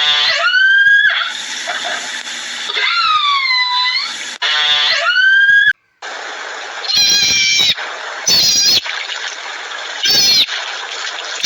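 Cat meowing: three drawn-out meows, each bending in pitch, in the first half. After a cut come three short high-pitched calls over background noise.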